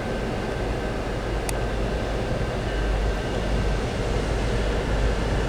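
Canadian National diesel locomotives rolling past with a steady low rumble and a faint steady whine. A single sharp click sounds about one and a half seconds in.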